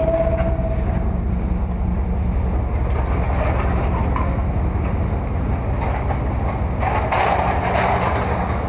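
An engine running steadily, a low even rumble. About seven seconds in, a brief rattling clatter.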